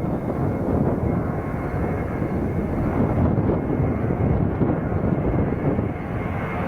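Jet airliner engines running, a steady rumble with a faint high whine above it.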